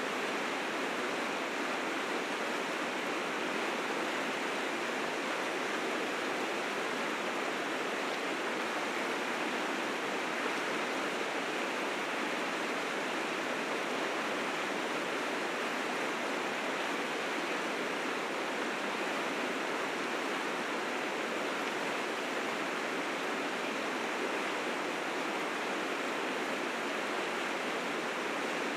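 River rapids rushing steadily: a dense, even roar of fast water, swollen with spring snowmelt.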